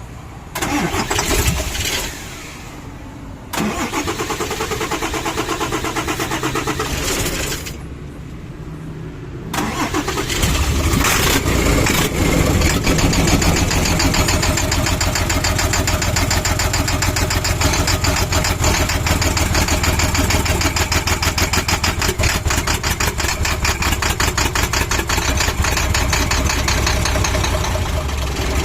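Isuzu 6HK1 inline-six diesel being cranked by its starter in two tries, then catching about ten seconds in and running steadily with an even rapid pulse: the hard-starting engine finally fires.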